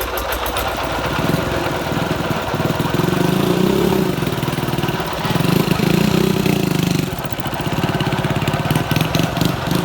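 Small farm tractor engine running with a fast, even beat. It picks up louder about three seconds in and again around five to seven seconds, then eases back.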